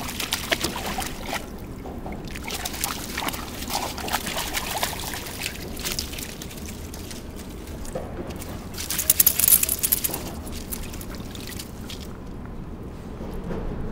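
A dog splashing and wading in shallow river water: irregular sloshing and splashes with small sharp clinks, and a louder flurry of splashing about nine seconds in.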